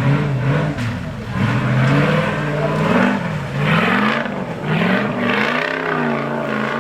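Off-road 4x4 engine revving, its pitch rising and falling several times under load.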